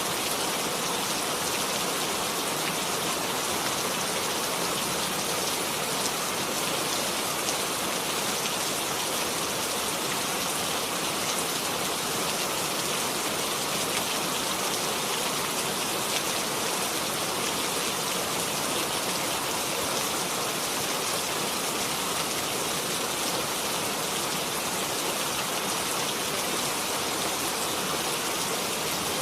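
Steady rain falling, an even hiss with fine drops pattering.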